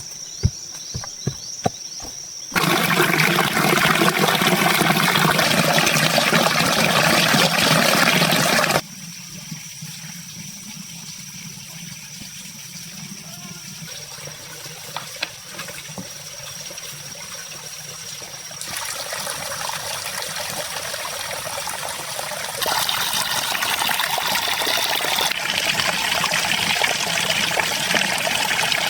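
Running water, a steady rush that changes loudness abruptly several times, with a few sharp clicks in the first couple of seconds.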